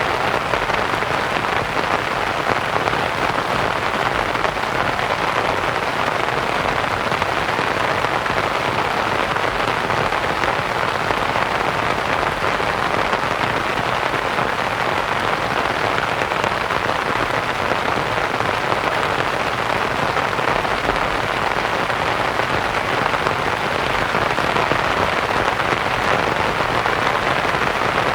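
Steady rain pattering on a canvas tent, mixed with soft white noise.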